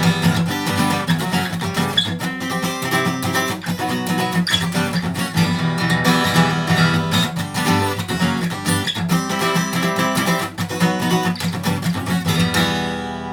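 Acoustic guitar strummed in a quick, steady rhythm, playing the closing chords of the song without singing, fading near the end.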